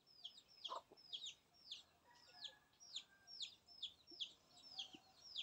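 A bird calling faintly: a steady run of short, high chirps, each sliding downward, about three a second.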